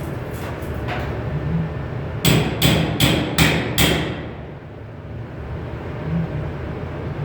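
A hammer striking sheet metal: five quick blows about 0.4 s apart in the middle, each with a bright metallic ring, and a fainter knock about a second in. A steady low hum runs underneath.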